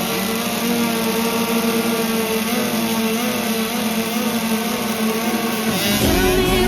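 Small two-stroke motocross bike engine, a 65cc class bike, held at high revs with a steady, slightly wavering note. Music comes in near the end.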